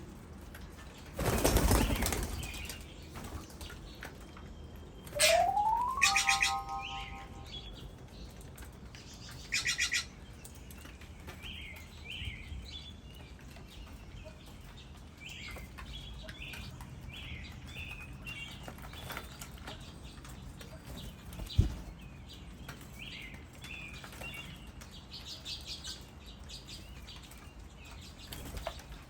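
Birds calling and chirping: a loud burst of wingbeats about a second in, a rising call followed by rapid pulsed notes around five to seven seconds, another pulsed call near ten seconds, then many short high chirps, with one sharp click a little past twenty seconds.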